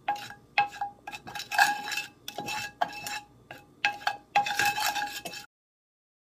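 A metal utensil clinking and scraping against a metal saucepan while stirring caramel syrup: irregular ringing knocks, about two a second, that cut off suddenly near the end.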